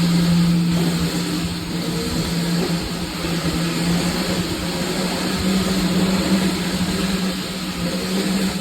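Electric dirt bike's motor whining steadily at a low pitch while being ridden, over rushing wind and tyre noise.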